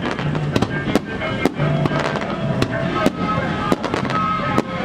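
Fireworks going off in sharp, irregular bangs about twice a second, over music.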